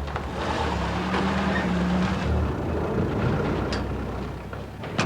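A vehicle's engine running with a low steady hum that fades toward the end, followed by a sharp knock.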